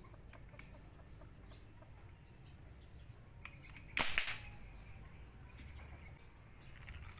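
A single sharp shot from a homemade PVC pipe gun about four seconds in, cracking and dying away within half a second. Faint bird and chicken calls sound in the background.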